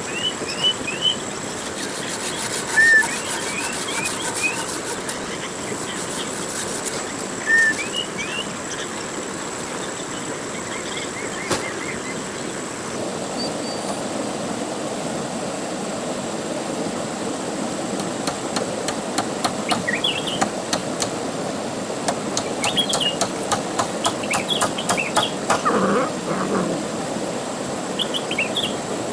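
Birds chirping in short, repeated calls over a steady background hiss, with runs of quick sharp clicks now and then and a thin steady high whine.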